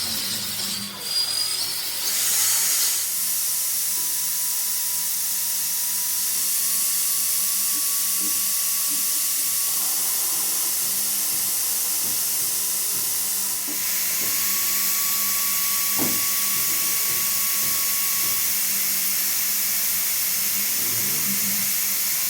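A steady, even hiss that starts about three seconds in and holds, with a faint thin whine under it and one short click late on.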